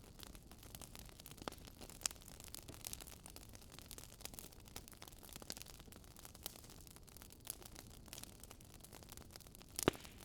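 Wood fire crackling: irregular small pops and ticks over a low steady hiss, with one louder snap near the end.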